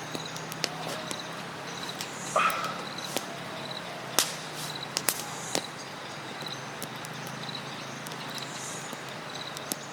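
Campfire crackling, with irregular sharp pops over a steady hiss, while an insect chirps softly about twice a second.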